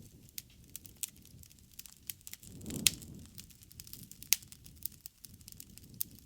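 Wood bonfire crackling with irregular sharp pops, the loudest about three seconds in and again just past four seconds, over a low rumble of flame that swells briefly near the middle.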